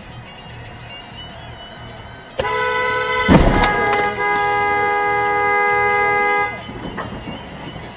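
A vehicle horn blares steadily for about four seconds under road noise. About a second after the horn starts there is one loud, heavy thump.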